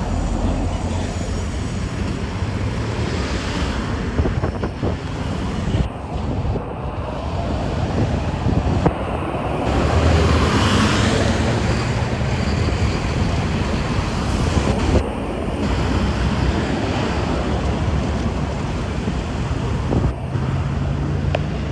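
Expressway traffic running steadily, with wind noise on the microphone and one louder pass about ten seconds in.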